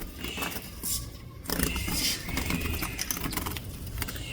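Hummingbird fluttering against a window pane, trapped indoors and mistaking the glass for the way out: its wings whir with a low hum, and light taps and rustles come as it flies at the glass.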